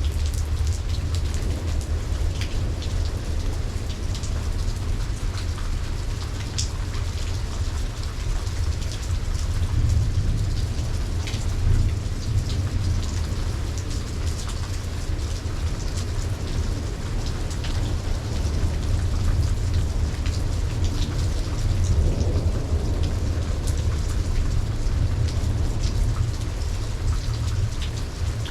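Steady heavy rain, with individual drops ticking sharply close by over a constant low rumble. Thunder rolls in the distance, swelling about ten seconds in and again near the end.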